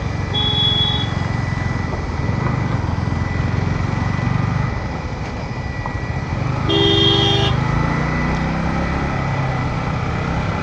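Yamaha MT-15's single-cylinder engine running at steady, moderate revs in traffic. A vehicle horn honks briefly about half a second in, and another horn honks louder for under a second about seven seconds in.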